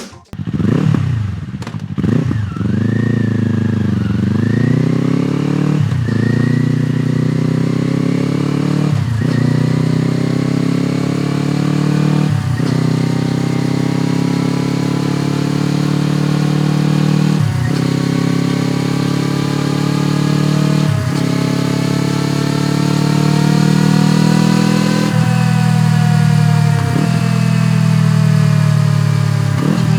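Kawasaki Eliminator 400 motorcycle engine running through a BEAMS Power Header exhaust, with a deep, steady note that slowly climbs in pitch. It dips and rises in the first few seconds, then breaks briefly every few seconds.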